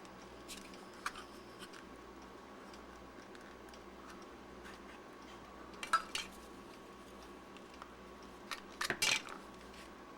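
Sparse clicks and scraping of a metal prying tool working the glued seam of a plastic battery case, with louder clusters of clicks about six and nine seconds in.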